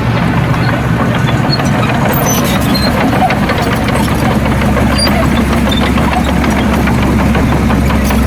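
Heavy diesel engine of earthmoving machinery running steadily, with scattered clanks and knocks over it.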